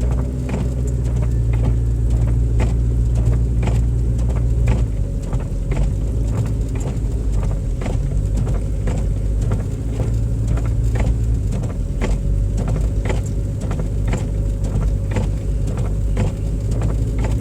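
Car engine and road noise heard from inside the cabin while driving on snowy streets: a steady low hum with frequent short clicks or knocks, about two a second.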